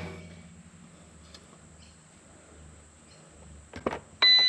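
A few faint handling clicks, then one loud electronic beep of about half a second near the end, from the RC transmitter being switched on or linking to the micro helicopter.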